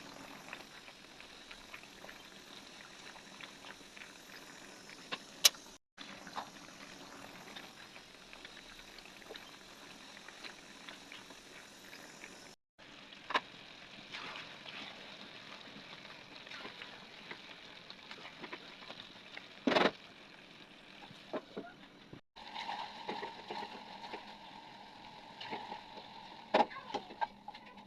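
Kitchen sounds of cooking: utensils clicking, knocking and scraping over a steady background hiss, in several short segments that cut off abruptly.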